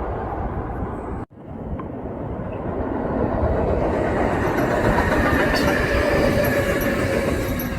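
Kintetsu electric train passing close by, a steady rumble of wheels on the rails with a faint whine from about halfway. The sound cuts out abruptly for an instant about a second in, then picks up again and grows louder.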